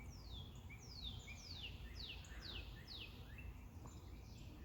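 A songbird singing a run of high, downward-sliding notes, about two a second.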